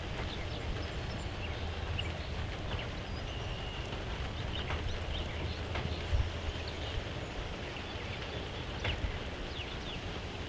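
Steady rain, with scattered drops tapping close by and a dull thump about six seconds in.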